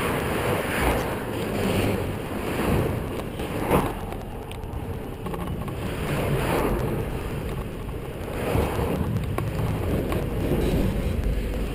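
Wind buffeting the microphone of an action camera on a moving bicycle, a rushing noise that swells and eases every second or two, with a few short knocks.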